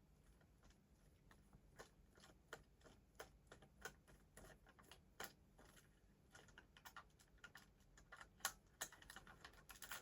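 Faint, irregular light clicks and taps of plastic as a toy train and its packaging are handled, growing busier in the second half.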